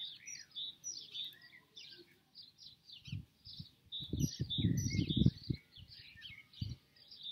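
Small birds chirping and singing steadily in quick short notes. About three seconds in comes a run of low rumbling thumps lasting a couple of seconds, louder than the birdsong.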